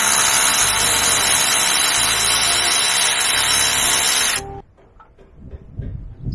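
A power tool, such as a cordless ratchet or impact driver, runs steadily for about four seconds while undoing the starter motor bolts, then stops abruptly, followed by faint clicks of handling.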